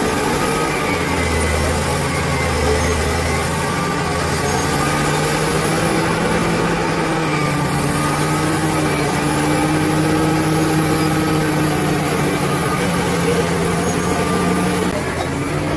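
Bulldozer's diesel engine running steadily, its pitch rising and falling a little as it works.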